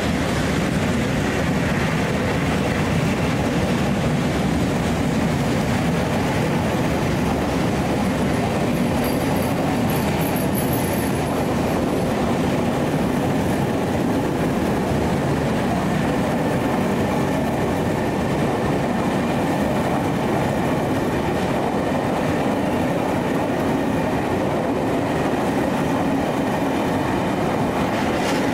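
A long train of railway passenger coaches passing close by: a steady, loud rumble of wheels on the rails, with clickety-clack over the rail joints.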